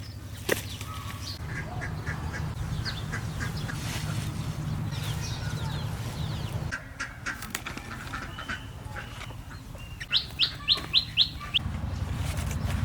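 Birds calling, ending in a quick run of about six sharp, high chirps some ten seconds in, over a steady low rumble.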